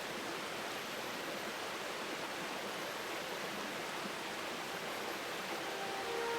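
Steady rushing of flowing water, an even hiss with no distinct events.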